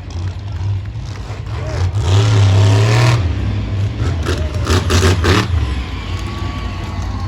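Monster truck engine running loud and revving, its pitch rising and falling in surges, loudest about two to three seconds in and again around five seconds.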